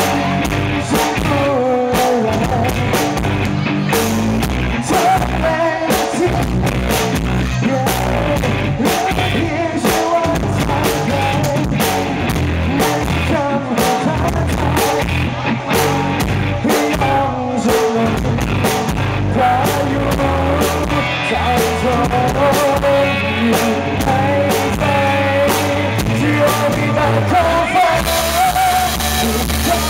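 Live rock band playing a song: a singer over electric guitar, bass and drums.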